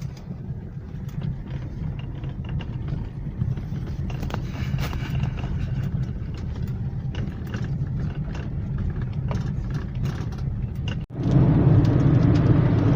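Steady road noise inside a moving car: tyre and engine rumble with a light hiss. About eleven seconds in it breaks off for an instant and comes back louder.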